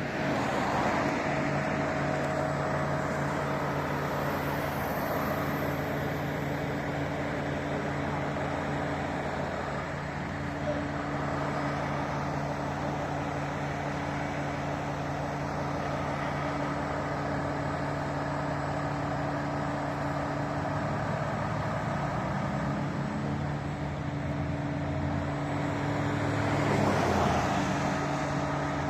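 Large truck's engine idling steadily amid street traffic, with a vehicle passing and swelling louder near the end.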